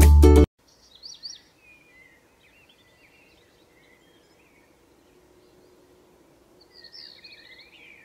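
Ukulele music cuts off about half a second in, leaving faint birdsong: short high chirps about a second in, scattered ones after, and a busier run of chirps near the end.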